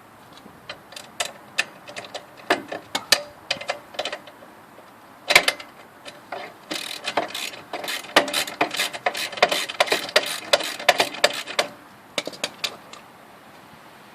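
Hand tools working the motorcycle's exhaust fastenings: scattered sharp metal clicks and clinks, then a fast run of ratchet-wrench clicking from about seven seconds in that stops near the end.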